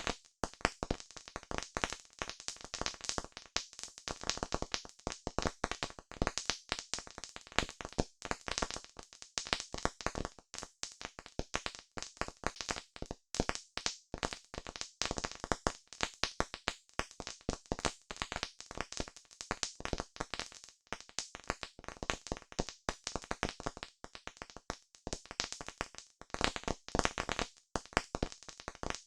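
Wood campfire crackling: a dense, irregular run of sharp pops and snaps from the burning wood.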